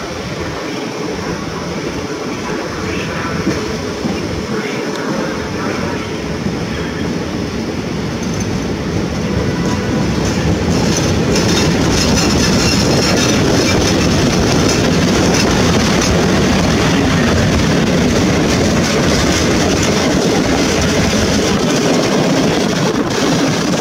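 PKP class EP07 electric locomotive hauling a passenger train past, with the steady rumble and rail noise of wheels on the track. It grows louder about ten seconds in as the locomotive and then its carriages pass close by.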